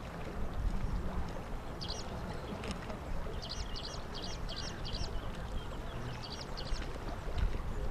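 A small bird chirping in quick runs of several high notes, three or four times, over a steady low rumble.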